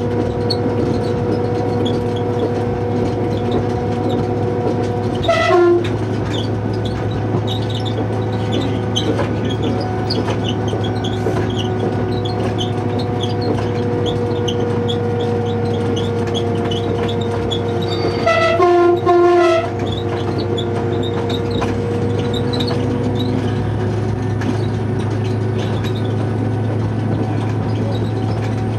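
Diesel train running steadily with a low engine drone, sounding its horn twice: a short blast about five seconds in and a longer one of about a second and a half a little later.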